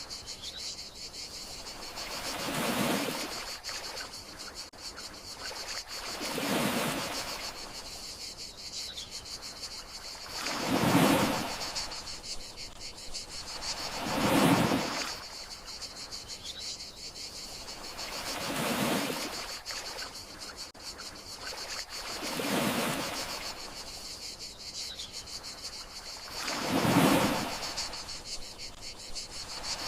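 Gentle sea waves washing in, each swelling and fading about every four seconds, over a steady high chorus of crickets. A faint short chirp comes about every eight seconds.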